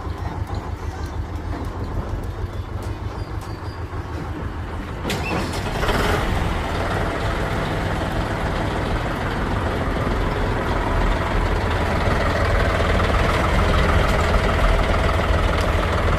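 John Deere tractor's diesel engine running with a steady low chug; a sharp click sounds about five seconds in, and from about six seconds the engine runs louder.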